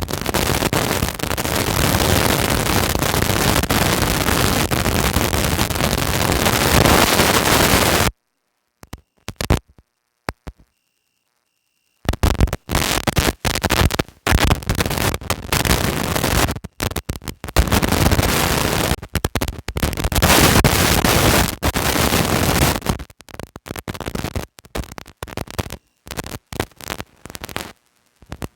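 Loud rushing, crackling noise on the microphone. About eight seconds in it cuts to dead silence for roughly four seconds, then comes back in choppy, broken stretches.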